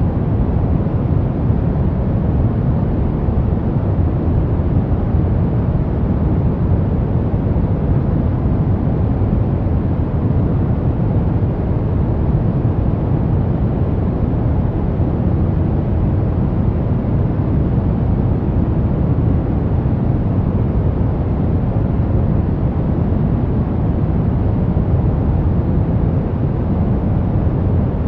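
Steady pink noise: an even, unbroken hiss with most of its weight in the low end and no change in level.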